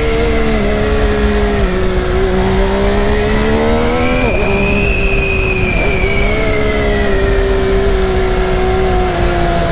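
2020 MV Agusta F3's three-cylinder engine pulling in first gear, its pitch rising and falling with the throttle, with two brief dips when the throttle is shut around the middle. Steady wind noise runs underneath.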